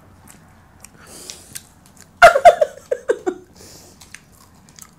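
Close-up eating sounds: biting and chewing a fried pork chop, with small wet clicks and crunches. A brief burst of voice sounds about two seconds in is the loudest part.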